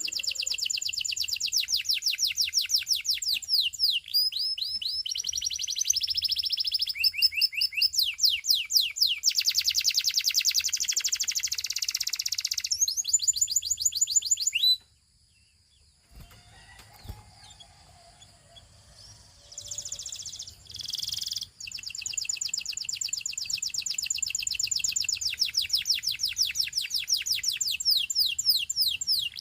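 Russian canary singing in fast trills of repeated high notes. The song breaks off about halfway through for a few seconds of near quiet, then resumes with long rolling trills.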